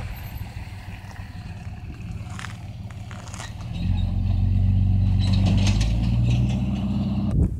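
A motor vehicle's engine running with a steady low hum. It grows louder about four seconds in and stops suddenly near the end.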